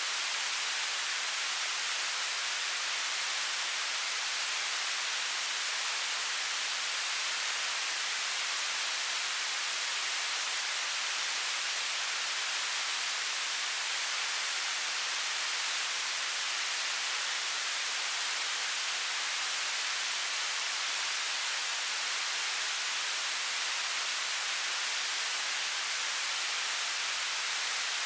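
Television static: a steady, even hiss, high and bright, with little low end, unchanging throughout.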